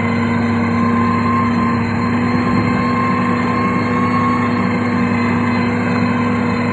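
Diesel engine of a heavy road-construction machine, a motor grader or road roller, running steadily at constant speed with a steady drone.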